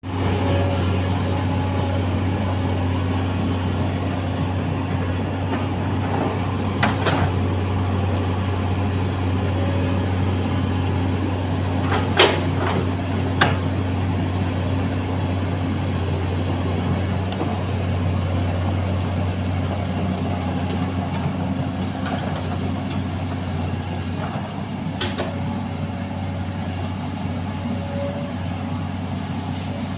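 Excavator's diesel engine running steadily, with a few sharp knocks over its hum.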